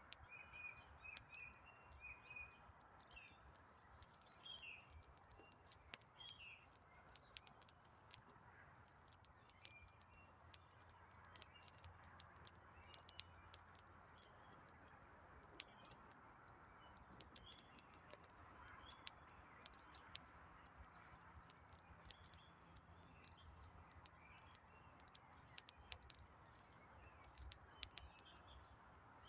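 Faint wood campfire crackling, with sharp pops scattered throughout and one louder pop about halfway through. Small birds chirp in short high phrases, most of them in the first few seconds.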